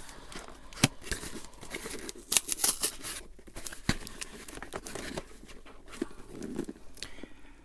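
Cardboard Funko Pop box being handled and pulled at: rustling and scraping with many sharp clicks and snaps as the figure is worked out of its tight packaging.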